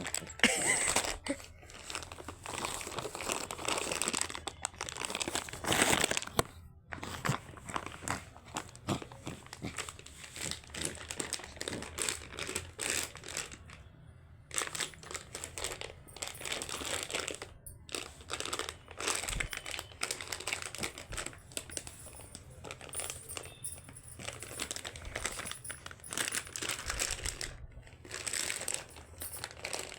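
Shih Tzu puppy playing with something crinkly: continuous, irregular crinkling and crumpling with short scratchy rustles.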